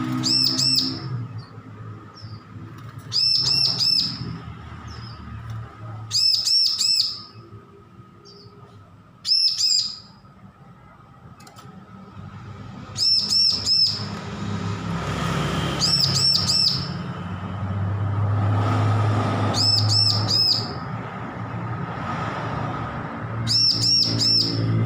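Bar-winged prinia (ciblek) song: about seven short bursts of three or four sharp, high, repeated notes, spaced a few seconds apart, over a low steady hum.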